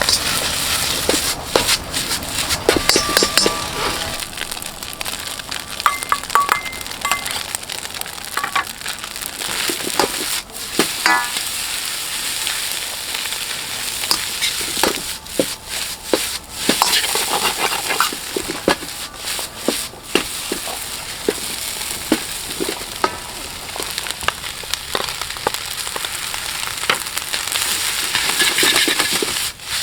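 Fried rice sizzling in a wok over a wood fire, with frequent sharp scrapes and clanks of a ladle against the wok as the rice is stirred and tossed. A few brief metallic rings come from the wok.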